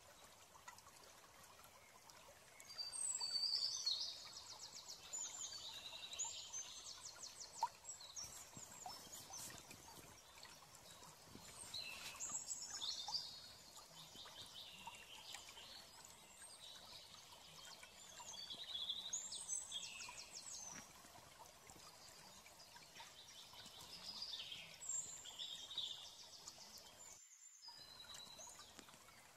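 Faint bird chirps and trills in about five short bouts over a low steady background hiss.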